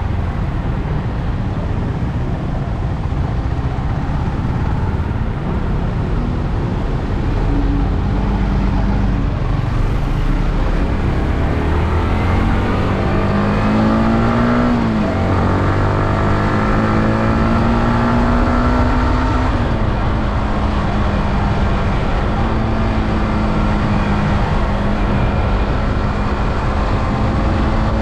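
Yamaha R15M's 155 cc single-cylinder engine running through its stock exhaust while riding, under a heavy rush of wind noise. The engine note climbs, drops sharply about halfway through as on a gear change, then holds fairly steady.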